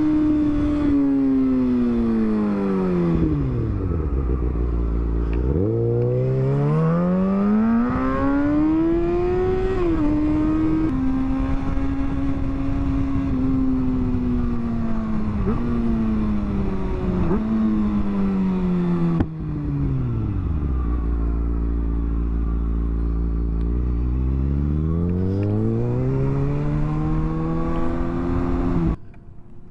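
Motorcycle engine on the move: the revs drop to a low idle about four seconds in, climb again with a few sudden drops like gear changes, settle back to idle around twenty seconds in, and rise once more before the sound cuts off abruptly near the end.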